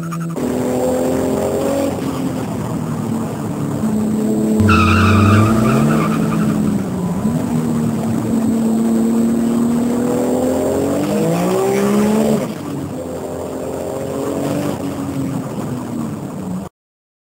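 Race car engines running hard, their pitch rising and falling as they rev and shift. A tyre squeal comes about five seconds in, followed by an engine revving up. The sound cuts off suddenly near the end.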